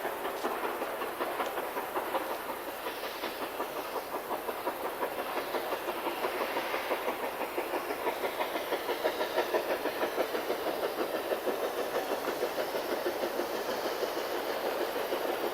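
K-27 Mikado narrow-gauge steam locomotive No. 463 working hard, its exhaust chuffing in quick even beats with steam hiss, growing louder towards the middle.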